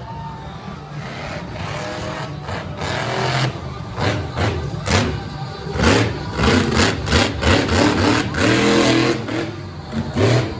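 Monster truck engine revving hard, its pitch rising and falling with the throttle and growing louder after the first couple of seconds, with a run of sharp bangs in the second half.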